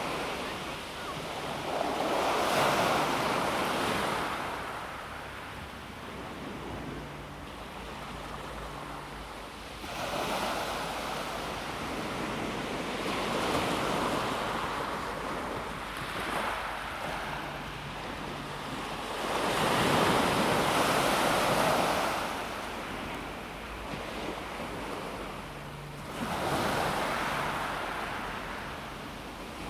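Calm sea waves washing onto a pebble beach. The surf swells about five times, several seconds apart, and eases between surges.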